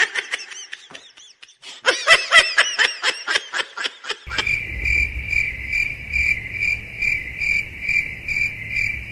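Rapid, repeated high-pitched calls for about four seconds, then steady cricket chirping at a little over two chirps a second.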